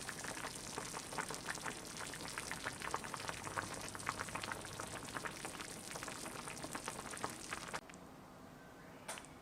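Doenjang jjigae (soybean paste stew) boiling hard in an earthenware ttukbaegi, a dense bubbling and popping that stops abruptly near the end, followed by a single faint click.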